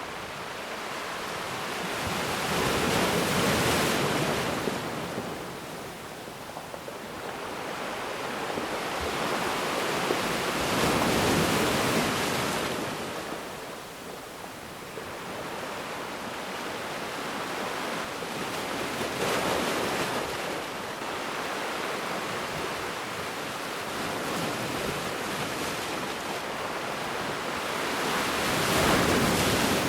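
Ocean waves breaking and washing on a beach, in slow surges that swell and ebb every several seconds, with the biggest breaks about 3, 11, 19 and 29 seconds in.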